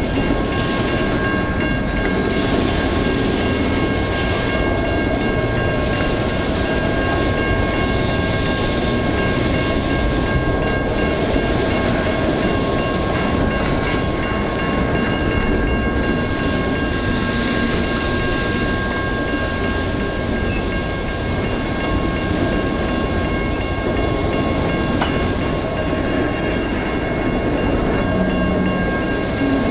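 Loaded freight gondola cars rolling past on steel wheels: a steady rumble and clatter of wheels on rail, with a steady high tone running through it and short hissing patches about eight and seventeen seconds in.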